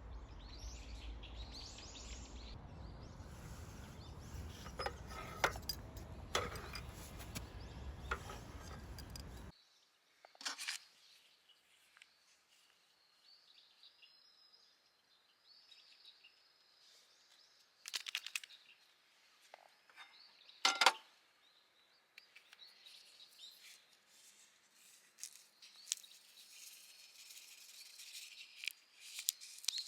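A steady low rumbling noise with scattered clicks for about the first nine seconds, then an abrupt change to quiet outdoor ambience with small birds chirping and a few sharp knocks.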